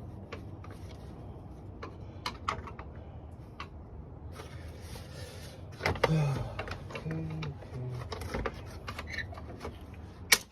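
Plastic fan shroud of a radiator fan assembly being forced into place: irregular clicks, knocks and scraping, with a louder cluster of knocks about six seconds in and a sharp snap near the end.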